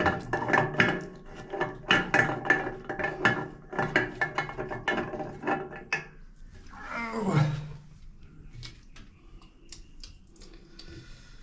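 Dog growling in low, rough rumbles for about six seconds, then one falling whine-like cry about seven seconds in. After that it quietens to faint clinks.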